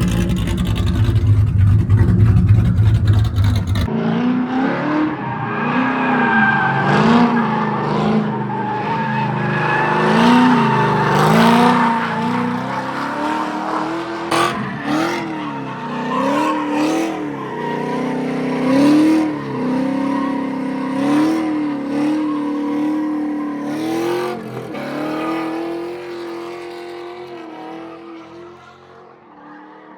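Ford Mustang S197 drifting: the engine revs up and drops back again and again, about every second or two, over squealing tires. The sound fades away in the last few seconds.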